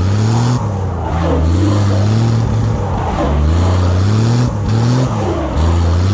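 Dodge D100 pickup's slant-six engine revving up and dropping back again and again, about every two seconds, as the truck is worked to break free of ice around its tyres.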